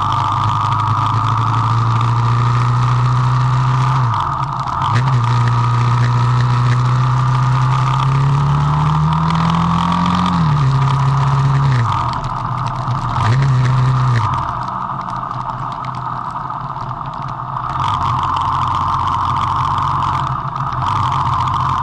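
Vento Rocketman motorcycle engine running under way: its pitch climbs slowly, drops sharply at gear changes about a fifth and about half of the way through, jumps in a brief rev, then settles lower and quieter for several seconds before picking up again, with a steady high whine running over it throughout.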